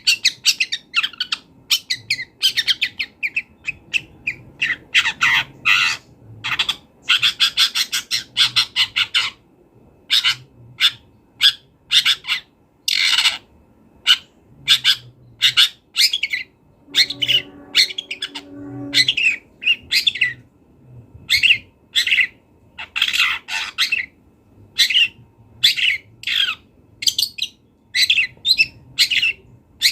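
Long-tailed shrike singing energetically: rapid series of harsh, high-pitched chattering notes and squawks, with mimicked phrases of other birds woven in. Near the middle there is a brief, lower held note.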